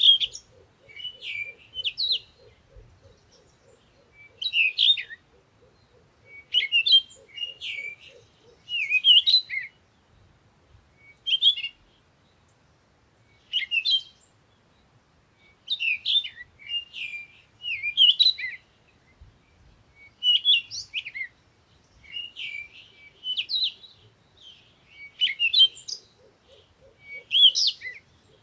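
Small songbirds chirping: short, bright, twittering phrases about a second long, repeated every one to two seconds.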